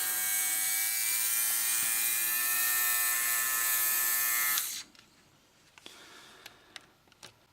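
Battery-powered Panasonic ER430K nose and ear hair trimmer running, its small motor spinning the cutter and vacuum fan with a steady whine. It is switched off and stops suddenly about four and a half seconds in, followed by a few faint clicks.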